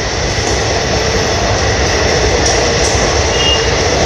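Passenger express coaches of an Indian Railways train passing at speed, a steady, loud wheel-on-rail noise.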